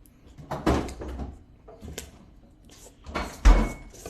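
A few knocks and clatters of kitchen handling, such as a cupboard door and things being set down. The loudest is a heavy thud about three and a half seconds in.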